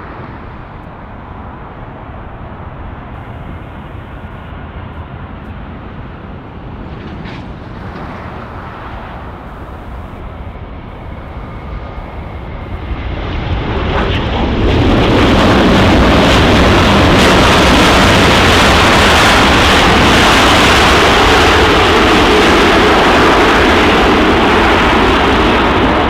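Jet engines of a landing Airbus A380, a four-engined airliner: a steady rumble that swells about halfway through into a loud, sustained jet noise that holds to the end.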